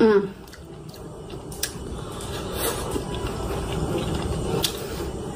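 Close-up eating sounds: chewing a mouthful of grain and green beans, with a fork clicking against a glass bowl twice. A short falling hum of the voice comes at the very start.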